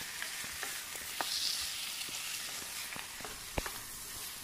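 Pork and potato pieces sizzling as they fry in a granite-coated pot, stirred with a spatula that clicks and scrapes against the pan, with one sharper knock near the end.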